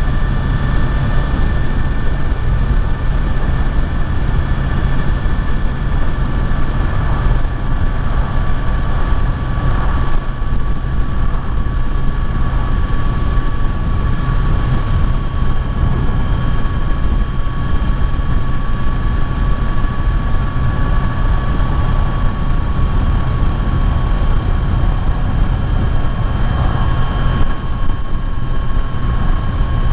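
Kawasaki Z900's inline-four engine running at a steady cruising speed, its pitch holding nearly constant, under a heavy low rush of wind noise.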